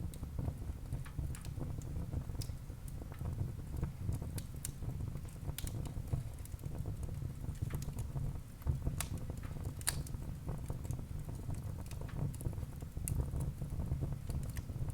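Wood fire burning in a fireplace: a steady low rumble of the flames with irregular sharp crackles and pops of the burning logs, a few louder pops near the middle.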